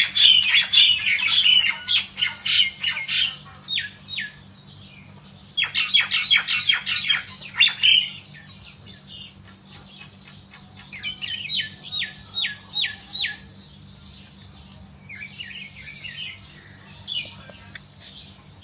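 A flock of birds calling: loud, dense flurries of high squawks and chirps, many notes falling sharply in pitch, coming in bursts with quieter pauses between, with a run of five or six repeated falling notes about halfway through.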